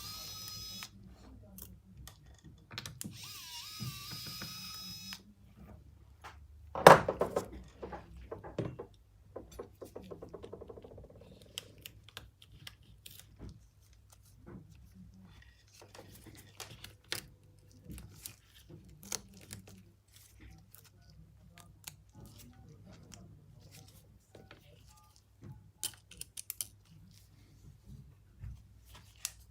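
Small tools clicking and tapping against a phone during screen-glass repair. Near the start are two brief runs of a small electric tool with a whine, and about seven seconds in comes one sharp knock.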